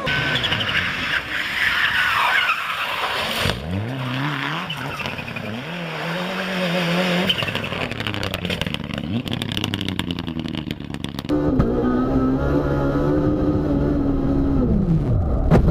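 Rally car engine revving hard, its pitch climbing and dropping again and again through gear changes, over steady tyre noise, with a spell of short clicking knocks midway. The engine comes in louder about two thirds of the way through and then falls away near the end.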